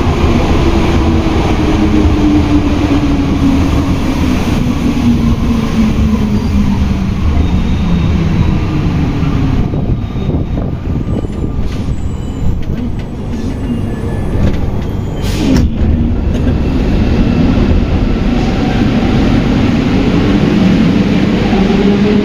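Rubber-tyred Alstom NS-93 metro train heard from inside the car, with running rumble and a motor whine. The whine falls in pitch over the first ten seconds as the train slows. A few clicks come in a quieter stretch in the middle, then the whine rises again as the train picks up speed.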